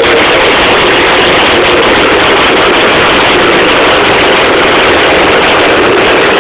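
Two-stroke single-cylinder engine of a 1984 Husqvarna WR400 dirt bike running, loud and steady with a fast flutter.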